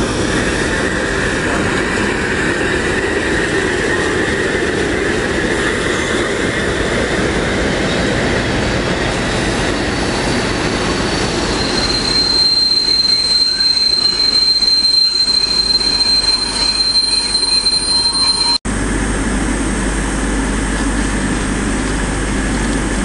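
Train passing at close range: an EWS class 90 electric locomotive hauling an empty car-carrier train, with dense wheel rumble and clatter. A loud, steady, high-pitched wheel squeal sets in about halfway through. The sound cuts off suddenly near the end, giving way to a steady low rumble.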